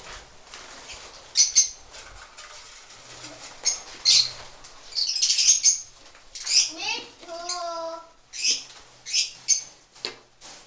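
Caged pet birds giving short, shrill chirping calls, a dozen or so at irregular intervals, with one lower, longer wavering call about seven seconds in.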